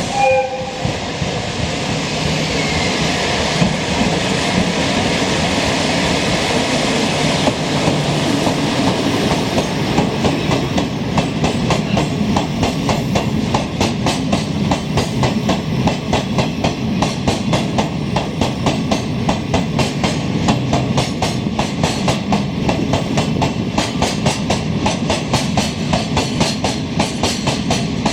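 Chichibu Railway freight train, an electric locomotive and its wagons, running past with a steady rumble. From about ten seconds in a fast, regular clickety-clack of wagon wheels over rail joints takes over.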